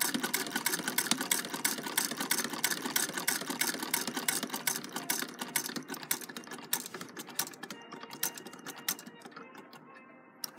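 Singer vibrating-shuttle sewing machine, hand-cranked, sewing: a fast, even clatter of needle-bar and shuttle clicks that slows and thins out in the second half as the cranking eases off.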